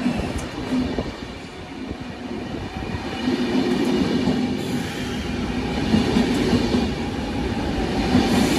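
Passenger train of DSB ABs coaches with a Class EB Siemens Vectron electric locomotive moving on the track, with a steady hum made of several tones over a rumble. It grows louder about three seconds in.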